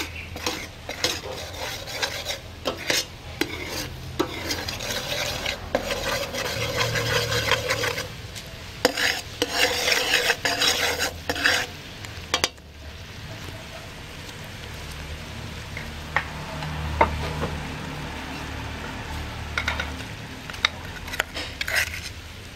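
Palm sugar melting and caramelizing in a pan while a utensil stirs it, scraping against the pan bottom with a light sizzle. The scraping strokes stop about halfway through, leaving a quieter sizzle with a few taps.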